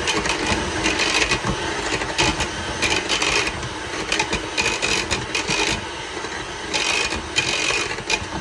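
Electric mixer running, its beaters whipping softened butter and eggs in a bowl, with an irregular clatter against the bowl.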